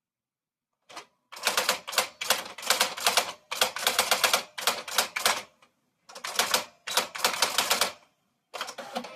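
Typewriter being typed on in fast runs of key strikes, three bursts of a couple of seconds each with short pauses between, and a fourth starting near the end.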